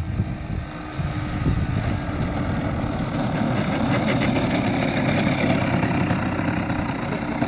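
Engine of a Piper Pawnee 40-size radio-controlled model airplane running steadily, with a rough low rumble underneath.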